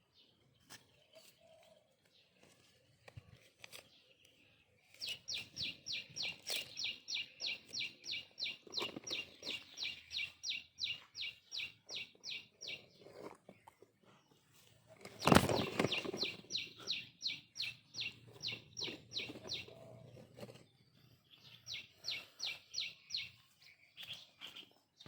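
A bird chirping in fast, even runs of high chirps, about four a second, in three bouts. A single sharp knock comes about halfway through.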